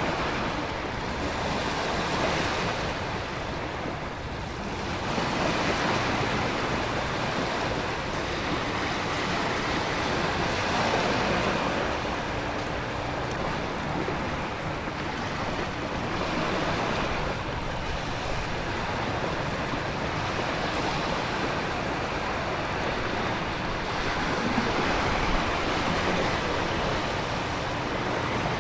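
Storm ambience of ocean surf and heavy rain with wind: a continuous rushing wash that swells and eases every few seconds as waves surge.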